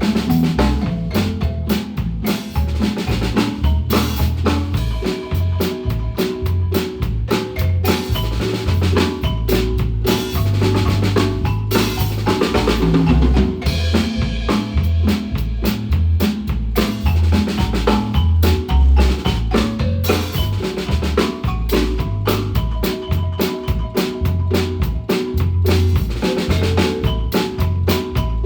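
Guatemalan marimba playing live with a drum kit: steady snare and bass-drum beat under the marimba's struck notes.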